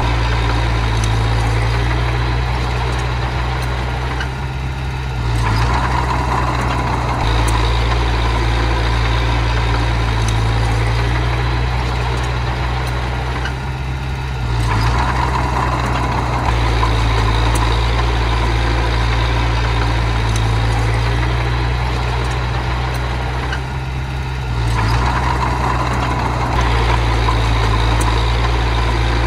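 Small bulldozer's engine running steadily under work, its note easing off briefly about every ten seconds.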